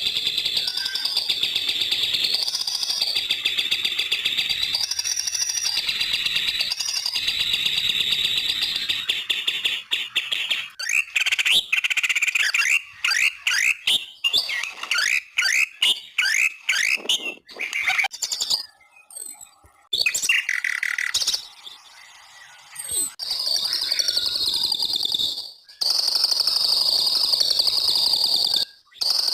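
White-rumped shama (murai batu) song. It starts as a dense, steady high chatter, changes after about ten seconds to quick sweeping whistled notes, and returns to the steady chatter near the end, with the sound breaking off abruptly a few times.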